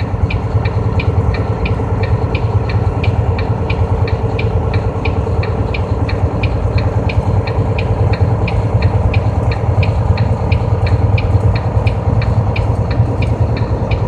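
Snow chains on the tyres clicking against the icy road at an even rate of about four a second, over the vehicle's steady low engine and road drone.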